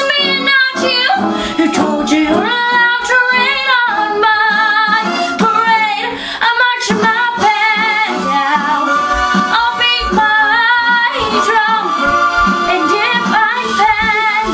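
Music: a woman singing sustained notes with strong vibrato over instrumental accompaniment.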